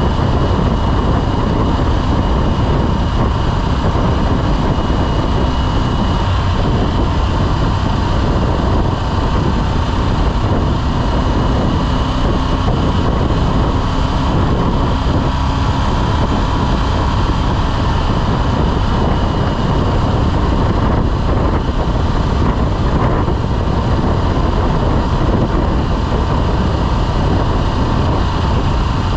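Motorcycle running steadily at road speed, its engine under a constant rush of wind over the microphone.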